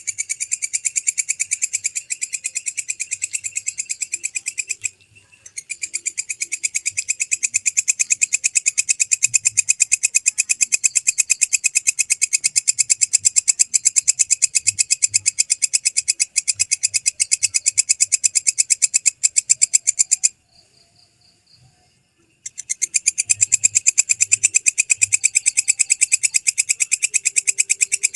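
Walang kecek (belalang kecek) katydid stridulating in long runs of rapid, evenly spaced shrill chirps. The calling breaks off briefly about five seconds in, and again for about two seconds past the twenty-second mark.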